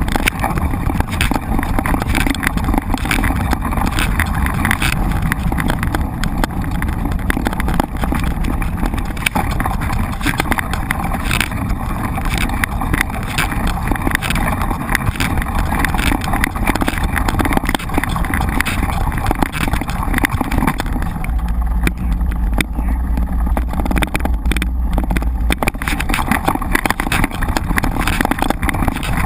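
Ride noise from a mountain bike in motion: heavy wind rumble on the microphone with the bike rattling and knocking over rough ground.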